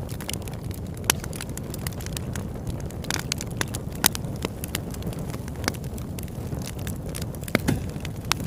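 Campfire burning: a steady low rush with frequent sharp crackles and pops. The loudest pops come about a second in, around four seconds, and near the end.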